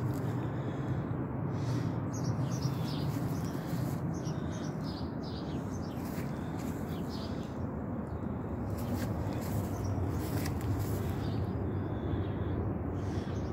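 Small songbirds chirping in short repeated calls, mostly in the first half and again near the end, over a steady low background rumble.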